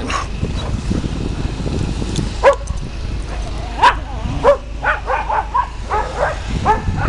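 Dogs barking and yipping in play: a few sharp single barks in the middle, then a quick run of short yips near the end. Steady wind rumble on the microphone underneath.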